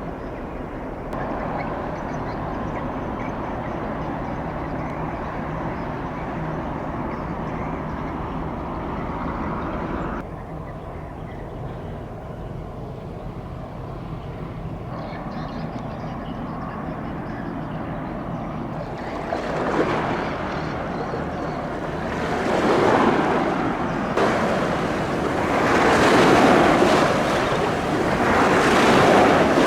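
A passing container ship's steady low engine drone. About two-thirds of the way through, swelling rushes of water and wind noise rise over it in surges, as the ship's wake washes in.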